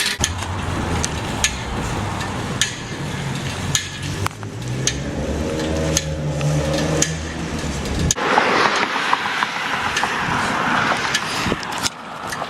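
Car engine running with scattered clicks and knocks; about eight seconds in the engine drone cuts off and a noisy hiss follows.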